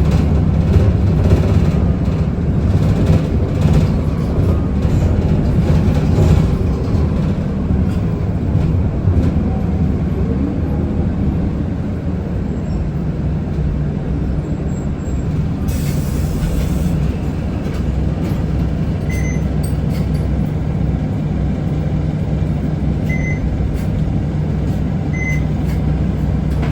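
Isuzu Erga city bus heard from inside while driving: steady hum of the diesel engine and drivetrain. About sixteen seconds in there is a short hiss of air, and a few short high beeps sound near the end.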